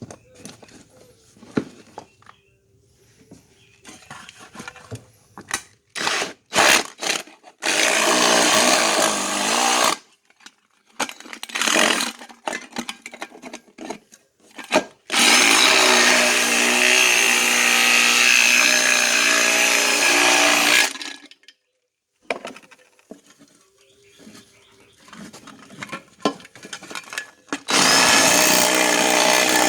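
A small power tool running in three bursts of a few seconds each, the middle one longest at about six seconds, as it cuts into a metal spray paint can. Clicks and handling knocks fall between the bursts.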